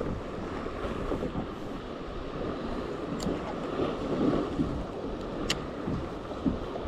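Wind buffeting the microphone and choppy sea water slapping and sloshing around a sea kayak on rough water. Two sharp clicks, about three and five and a half seconds in.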